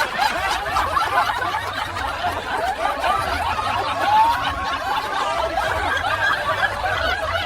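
A group of people laughing and chuckling together, many voices overlapping steadily.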